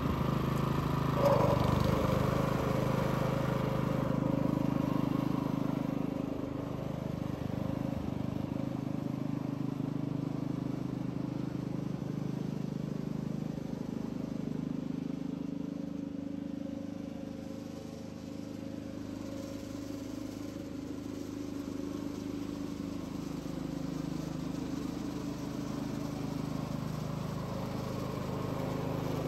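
Engine of a walk-behind reel mower running steadily while mowing. It grows a little louder and fainter as the mower moves, with a brief sharper sound about a second in.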